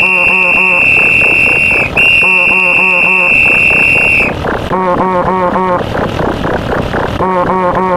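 Referee whistle sounding a long, steady, high blast, a short break, then a second long blast that stops about four seconds in. Under it and afterwards, a synthetic text-to-speech voice repeats a short phrase rapidly over and over.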